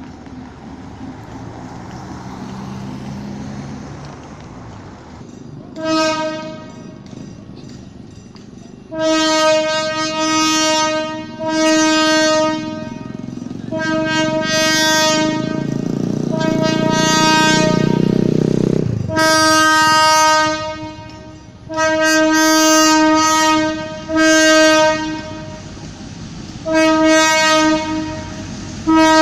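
Passenger train's horn sounding a long series of blasts of one to two seconds each, repeated roughly every two to three seconds. The train's engine runs beneath it, its rumble swelling about halfway through.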